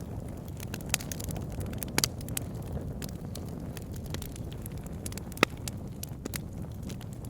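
Wood fire burning in a fireplace: a steady low rumble of flames with scattered sharp crackles and pops, the loudest pops about 1, 2 and 5.5 seconds in.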